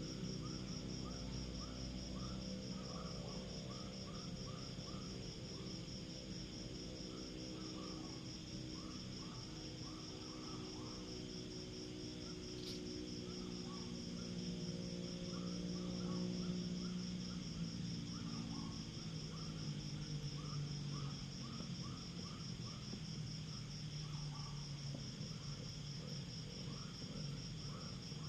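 Crickets trill steadily in a fast, even pulse. Groups of lower chirps from other insects come in bursts over it, and a low steady hum runs underneath.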